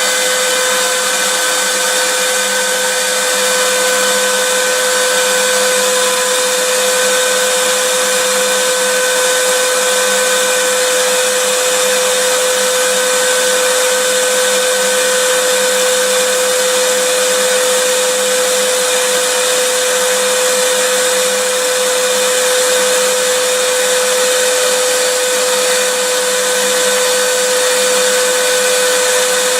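Vacuum cleaner motor running steadily, a constant rushing noise with a strong steady hum.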